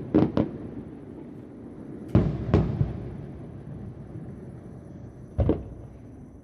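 Fireworks shells bursting about a kilometre away: two quick bangs at the start, two more about two seconds in and a last one about five seconds in, each followed by a rolling echo that fades slowly.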